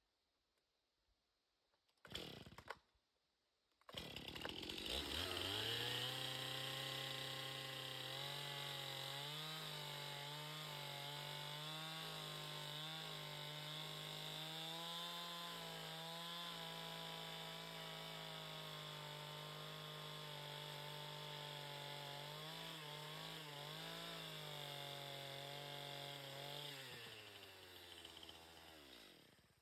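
Two-stroke chainsaw engine running at high revs: it rises quickly to speed, holds steady for over twenty seconds with small dips in pitch, then winds down and fades near the end.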